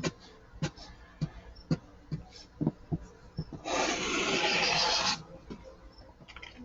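Felt-tip marker rubbing on paper while colouring in: short scratchy strokes roughly twice a second, with a louder continuous rubbing lasting about a second and a half midway.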